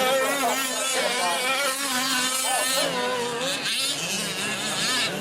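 Several 1/5-scale gas RC trucks' small two-stroke engines buzzing as they race, their pitch rising and falling with throttle.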